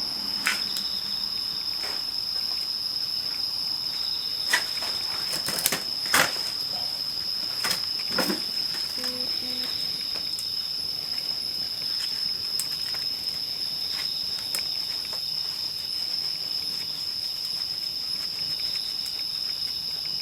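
Wood campfire crackling, with several sharp pops in the first half and lighter ticks after. A steady high insect trill runs underneath throughout.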